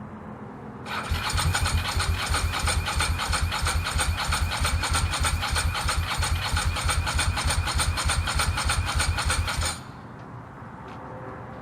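Ducati 916's electric starter cranking the 90-degree V-twin for about nine seconds in an even, fast pulsing rhythm without the engine catching, then cutting off suddenly. It is a failed start attempt on the freshly rebuilt bike, with the fuel supply not yet sorted out.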